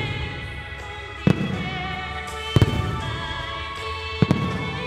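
Aerial firework shells bursting: three sharp bangs about a second and a half apart, the second and third each doubled. Music with long held notes plays under them.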